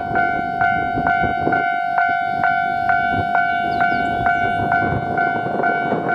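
Railway level-crossing warning bell ringing a loud, steady electronic tone, repeating a little over twice a second. Birds chirp faintly in the background.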